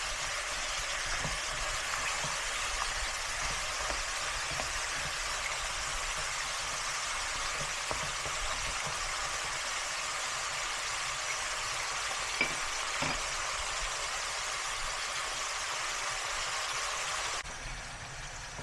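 Food frying in a hot pan with a steady sizzle and a few small clicks. It drops off abruptly near the end.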